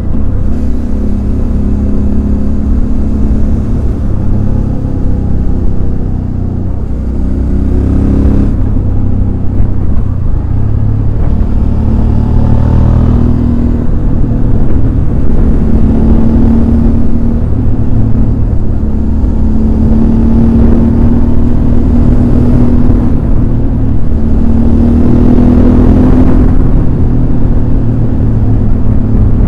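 Suzuki DL650 V-Strom's V-twin engine running on the move, with a steady low rumble. Its note climbs and eases off several times as the throttle is worked, with a brief lull about seven seconds in.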